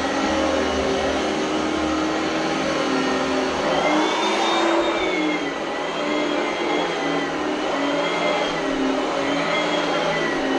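Oreck Elevate Conquer vacuum cleaner running, its motor whine wavering up and down in pitch as it works across the floor. About four seconds in, the rushing sound swells and the pitch rises briefly before settling.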